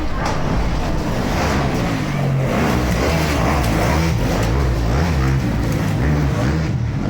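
Motorcycle engine being revved up and down in quick succession, its pitch rising and falling over and over.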